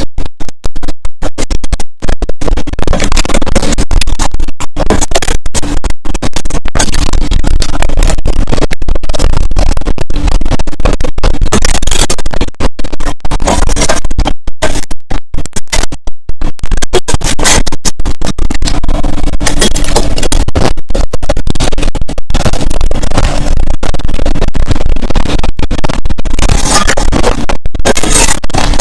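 Loud, close-up crunching of clear and powdery crushed ice being chewed, a dense run of crackling bites broken by brief pauses.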